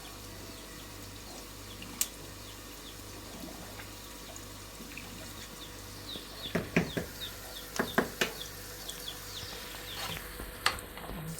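Steady low hum, then from about six seconds in a run of sharp clicks and knocks, as of kitchen utensils and dishes being handled.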